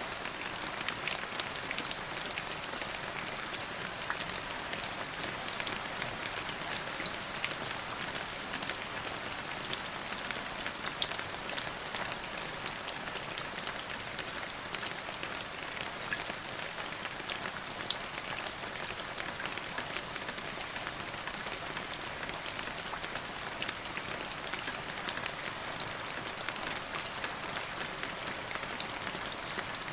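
Steady rain falling on a surface, a continuous hiss thick with the patter of individual drops.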